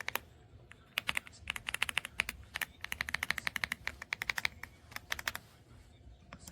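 Typing on an EPOMAKER x Aula F75 gasket-mounted mechanical keyboard with Ice Vein switches. A few keystrokes at the start are followed by a fast run of keystrokes from about a second in, which stops about five and a half seconds in.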